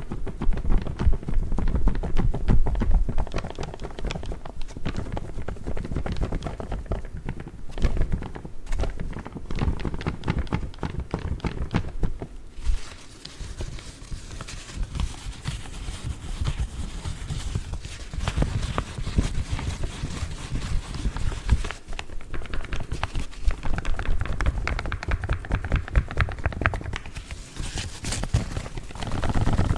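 Paper coffee filter bags being tapped and crinkled in a fast, dense run of small taps and rustles.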